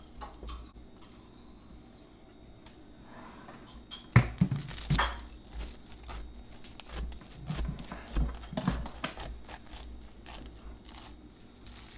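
Kitchen handling sounds of the finished waffle-iron sandwich: a sharp knock about four seconds in and another a second later, then scattered light knocks and crackling.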